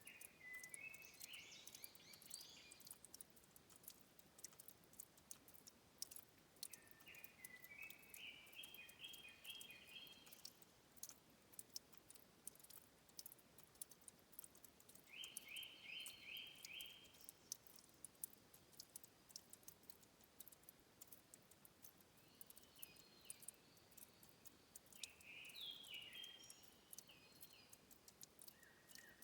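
A songbird singing short, quick phrases of rapidly repeated notes, about five phrases spaced several seconds apart. Faint, scattered clicks and a soft hiss sit underneath.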